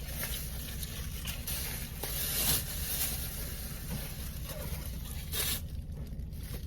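Rustling and scraping as things are picked up and put into a bag, in irregular bursts over a steady low rumble.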